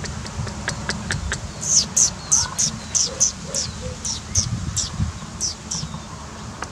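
A bird calling over and over: a run of about a dozen short, high notes, each dropping in pitch, roughly three a second. A low rumble runs underneath.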